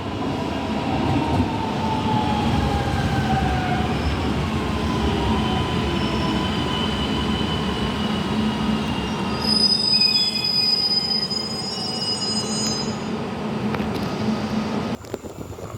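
Train rolling through a station, its steel wheels squealing against the rails in high sliding tones over the rumble of the cars. The squeal is loudest and shrillest about ten seconds in, and the sound drops off sharply near the end.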